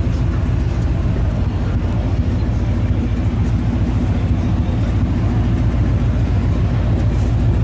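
Chevrolet Chevelle's engine idling steadily, its exhaust note low and even.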